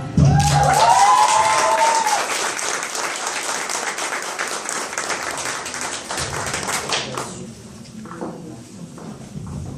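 Audience applauding, with a few cheering shouts in the first two seconds; the clapping thins out and dies down after about seven seconds.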